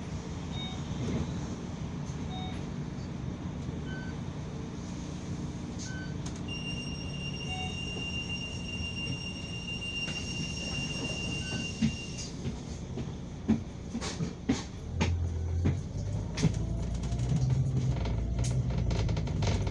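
Steady engine and road rumble inside a moving city bus, with scattered short beeps and a steady high tone for several seconds midway. Knocks and rattles follow, and music with a drum beat comes in about fifteen seconds in.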